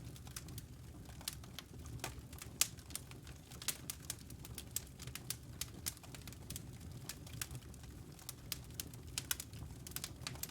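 Wood fire burning in a fireplace: logs crackling with irregular sharp pops, several a second, over a low steady rumble of the flames.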